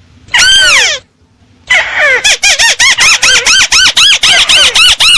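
Lure recording of a tikusan (crake) call: one loud arched squealing note, a short pause, then a rapid run of short squealing notes, about five a second.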